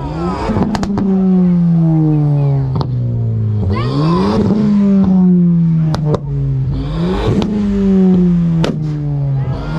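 Lowered Ford Fiesta hatchback's engine being revved three times, each rev rising quickly and sinking slowly back down. There are a few sharp pops between the revs.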